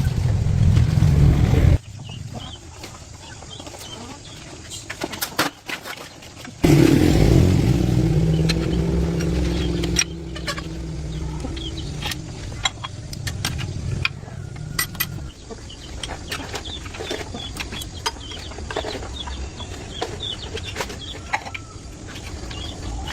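Old tractor's engine running with a low steady hum. It cuts off abruptly about two seconds in, comes back loud at about six and a half seconds, then fades. Chickens cluck and birds chirp through the quieter stretches.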